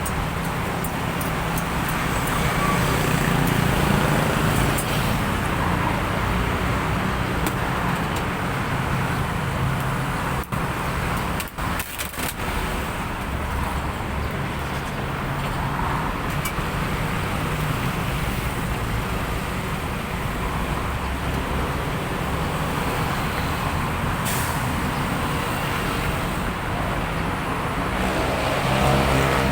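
Steady road traffic noise with vehicle engines running, broken by a few brief dropouts about ten to twelve seconds in.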